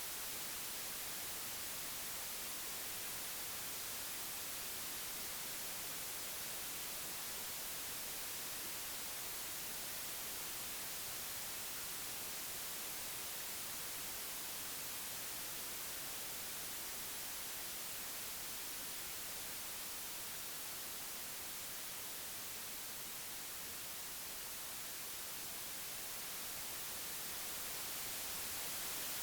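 Computer-generated white noise: a steady, even hiss across the whole range. It dips slightly in level about two-thirds of the way through and swells back near the end.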